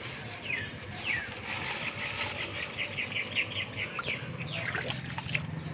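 A bird singing a series of short, high, down-slurred notes that speed up into a quick run of about five notes a second, then slow again. A low steady hum comes in near the end.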